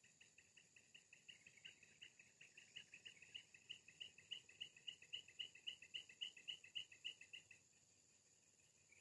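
White-breasted waterhen's call, the lure sound: a fast, faint run of short repeated notes, about five or six a second, growing louder and then breaking off shortly before the end.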